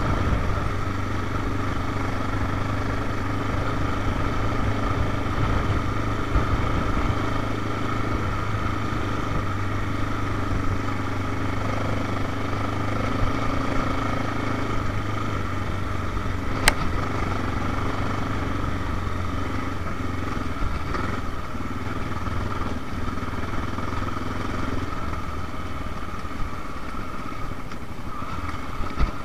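Honda XR650L's air-cooled single-cylinder four-stroke engine running while the bike is ridden along a dirt trail, its note holding steady. A single sharp click about halfway through.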